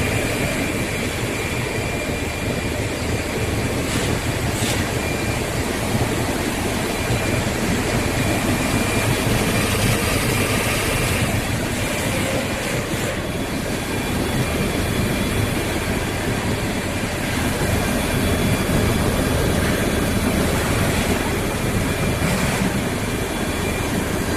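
Plastic pulverizer running steadily while milling PE/PVC plastic into powder: a loud, continuous grinding noise with a faint steady high tone over it.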